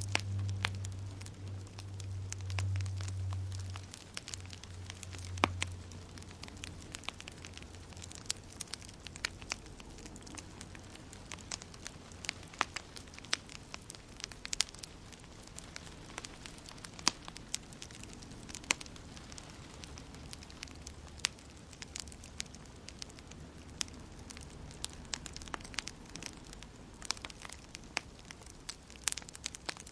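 Wood fire in a fireplace crackling, with irregular sharp pops over a faint hiss. A low rumble in the first few seconds dies away.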